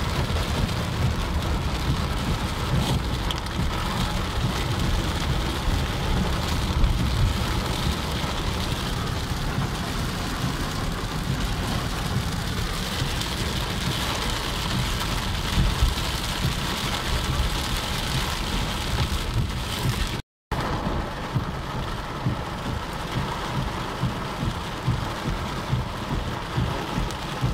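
Heavy rain falling on a car's roof and windscreen, heard from inside the cabin, over a steady low rumble. The sound cuts out for a moment about twenty seconds in.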